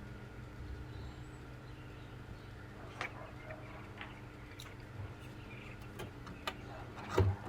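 Scattered light clicks and knocks from handling the pinball machine's parts, a few seconds apart, the loudest a pair of knocks near the end, over a faint steady hum.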